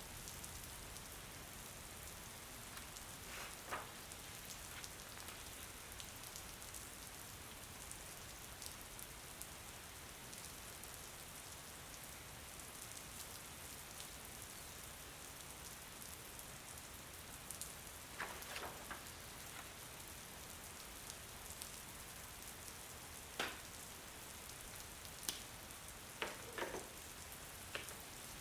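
Steady rain falling, an even hiss, with a few sharper ticks and taps standing out now and then, the loudest about two-thirds of the way through.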